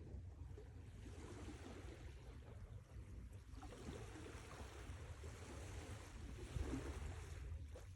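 Sea waves washing ashore: a faint surge of surf that builds about a second in and fades near the end, over a steady low rumble.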